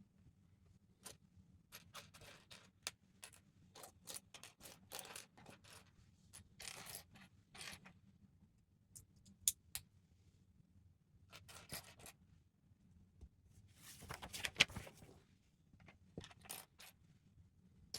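Lego bricks being handled and pressed together: a faint, irregular scatter of small plastic clicks and short rustles. There is a denser stretch of rustling about three quarters of the way through.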